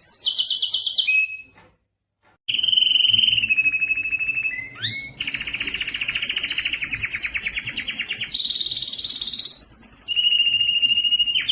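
Domestic canary singing: a string of fast trilled phrases, each a rapid repeat of one note held for a second or more before switching to another pitch. The song breaks off briefly about a second and a half in, then resumes.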